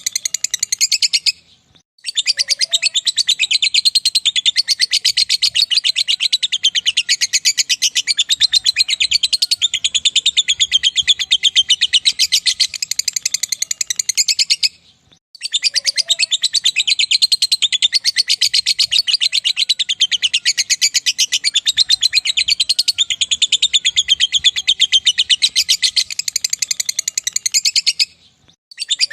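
Lovebird in long ngekek song: an unbroken, very fast, shrill chattering trill that runs about thirteen seconds at a stretch. It breaks off briefly about 1.5 s, 15 s and 28 s in, then starts again.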